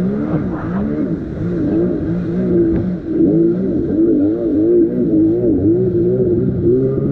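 Kawasaki X2 jet ski's 650 two-stroke twin engine running under way, its pitch rising and falling about twice a second.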